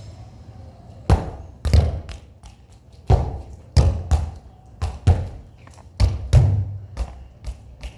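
A football struck over and over, about a dozen irregular thumps, each with a deep thud and a short ring.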